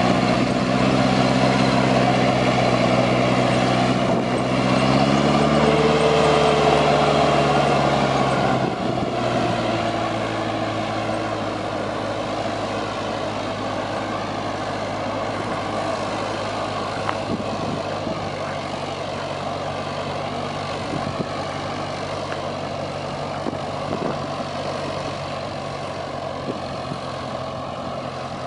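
Truck engine running. Its note rises about four to six seconds in, then drops sharply near nine seconds and settles into a steady, quieter run.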